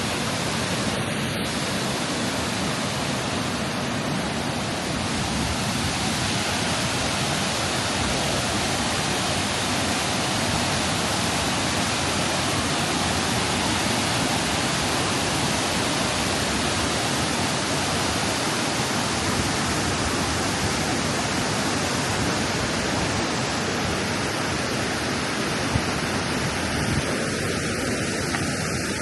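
Devil's Punchbowl waterfall: falling water making a steady, unbroken rush that does not change.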